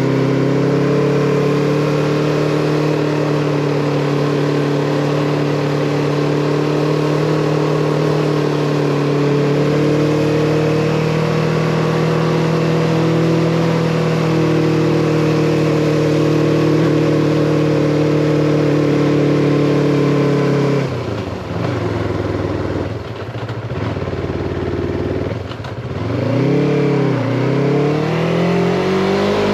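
Yamaha MT-25 motorcycle's parallel-twin engine running at a steady, even pitch for about twenty seconds, then dropping off; in the last few seconds the revs rise and fall several times in quick succession, as with throttle changes and gear shifts.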